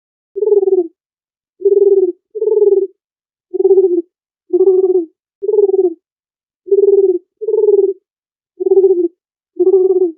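Dove cooing: ten short, low coos, some in quick pairs, with clean silence between them.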